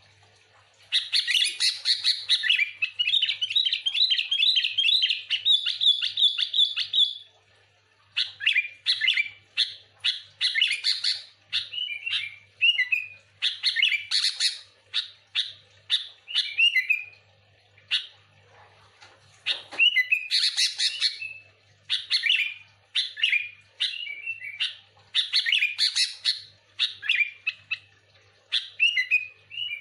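Sooty-headed bulbul (kutilang) singing loudly. It gives a fast, continuous chatter for about six seconds, then a string of short bubbly phrases of quick notes and warbles, broken by brief pauses.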